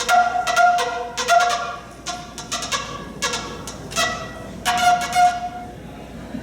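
A run of short, pitched, horn-like blasts, most of them on the same note, each starting with a breathy rasp and coming in clusters about once a second.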